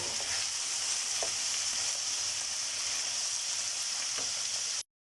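Langoustines sizzling as they brown in a hot pan: a steady frying hiss with a few light pops. The sound cuts off abruptly near the end.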